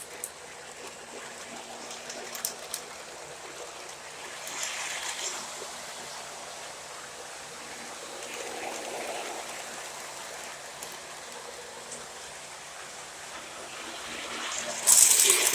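Lionel O gauge model train running on its track: a steady rushing rolling noise with a few faint clicks, then a sudden loud burst of noise near the end.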